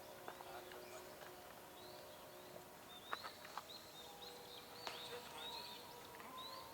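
Faint bird chirping: a run of short, repeated high calls over a quiet outdoor background, with a couple of faint clicks.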